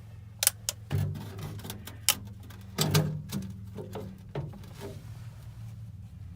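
Scattered clicks and light knocks of tools and parts being handled while working on furnace wiring, over a steady low hum.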